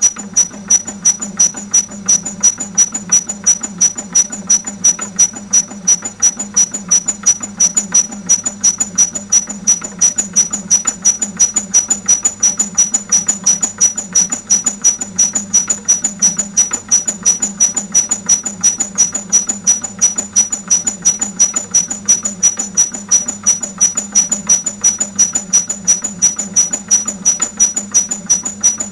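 Laboratory shaker running with a high squeak on every stroke, repeating evenly about three times a second.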